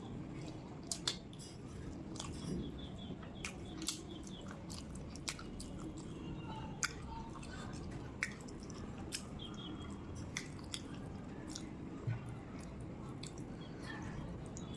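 A person chewing a mouthful of rice and curry close to the microphone, with irregular wet mouth clicks and smacks.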